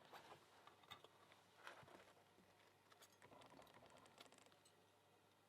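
Faint, scattered small clicks and taps of tweezers and small parts of an American 1100 padlock being handled while springs are loaded into its pin chambers.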